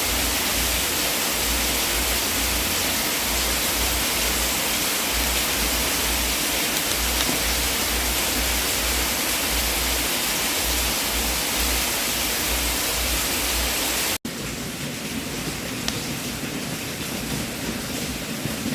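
Fireplace fire giving a steady rushing hiss over a low pulsing rumble. About fourteen seconds in it cuts abruptly to a quieter, duller take with a few faint crackles.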